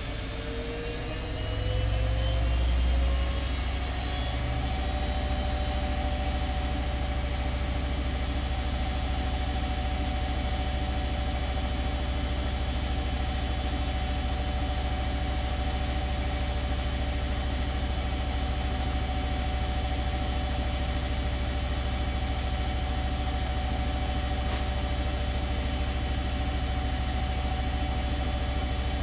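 ATLANT 70C1010 washing machine's motor and drum speeding up into a spin: a whine climbs in pitch over the first four or five seconds, then holds steady at spin speed over a low rumble that swells briefly during the run-up.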